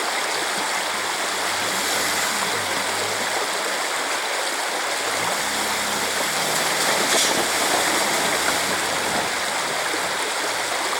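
A mountain river rushing steadily over rocks, a constant loud water noise.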